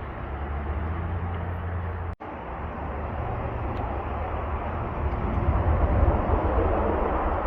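A vehicle engine running steadily with a low rumble and a wash of noise over it. The sound drops out for an instant about two seconds in, then carries on.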